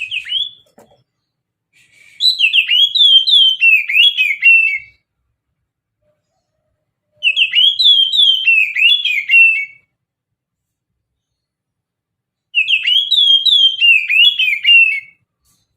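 Oriental magpie-robin (kacer) singing its mountain-style ('pegunungan') song. It sings three loud phrases of quick, sliding notes, each about two and a half seconds long, with a few seconds of silence between them.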